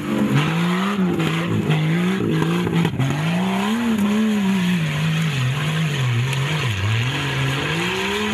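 Jeep Cherokee Sport's engine revving up and down in repeated surges as the 4x4 pulls away across muddy ground.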